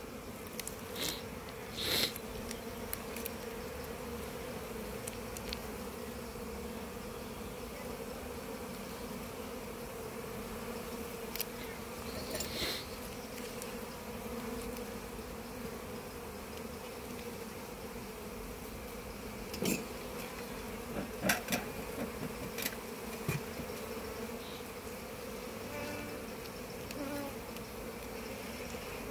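Honey bees from an open hive buzzing in a steady hum, with a few short clicks and knocks scattered through it.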